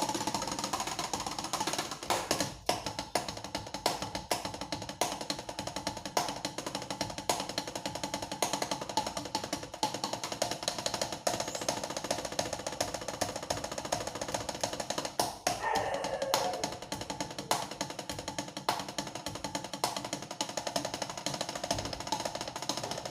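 Drum played with sticks in a fast, continuous stream of strokes, like a rudiment or roll exercise.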